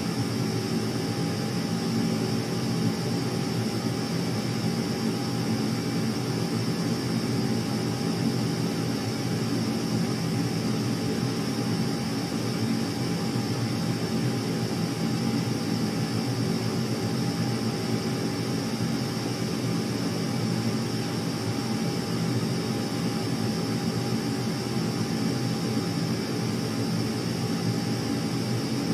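Steady aircraft engine noise: a continuous low drone with a thin high whine over it, unchanging in level.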